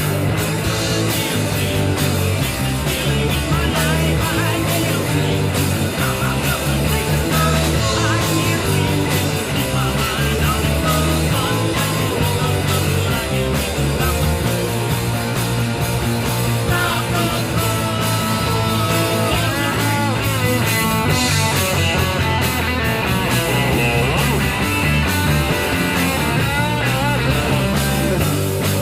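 Rock band playing live: two guitars, bass and drums, loud and steady.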